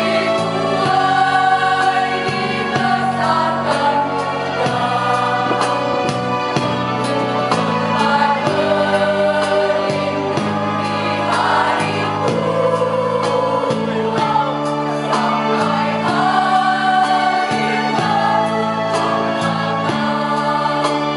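A mixed choir singing a song in harmony, over held low chords from an instrumental accompaniment.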